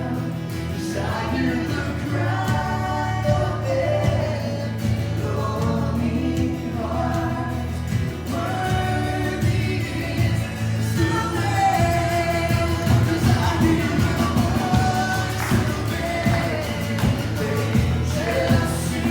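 Christian worship song: several voices singing a melody together over a band with bass and a steady beat.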